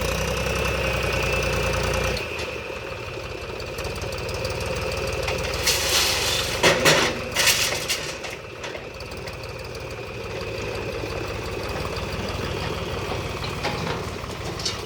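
Mahindra tractor's diesel engine running as it works a front loader, its low note dropping about two seconds in. Around six to seven seconds in come several loud clattering knocks.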